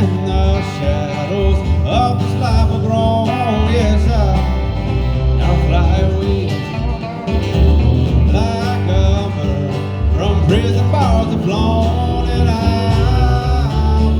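Country-style band playing an instrumental passage with guitar, the lead line bending and sliding over a steady pulsing bass.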